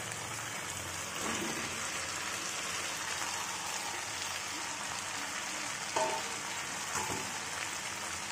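Cauliflower florets sizzling in hot, oily masala in a nonstick wok: a steady frying hiss.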